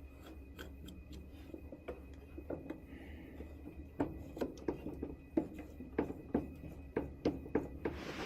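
Hand work on a gas furnace: irregular small clicks, taps and scrapes of tools and metal parts, coming faster from about halfway through, over a low steady hum.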